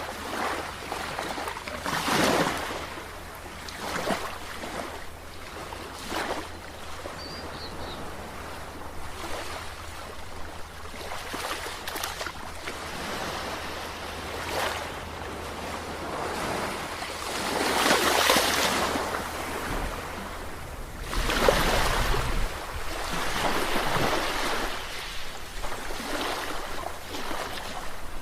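Sea waves washing in and breaking: a steady hiss of surf with irregular louder surges, the biggest about two seconds in and again past the middle, over a faint steady low hum.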